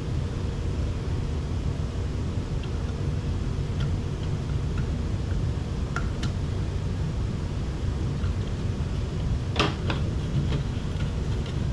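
Scattered light clicks and taps of plastic parts being handled on a car's cabin air filter housing, the loudest knock about two-thirds of the way through. Under them runs a steady low fan-like hum.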